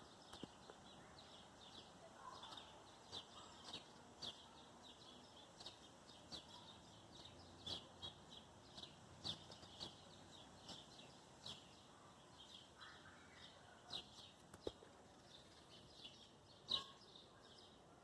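Small songbirds chirping: a steady run of short, high chirps, a few each second, faint, with one louder chirp near the end.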